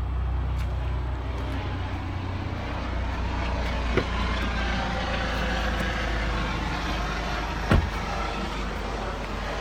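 A steady low engine-like hum under a constant hiss, with a short knock about four seconds in and a louder one near eight seconds.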